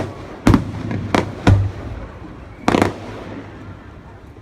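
Fireworks going off: five sharp booms in the first three seconds, the last one a little after halfway, each followed by a short echoing rumble.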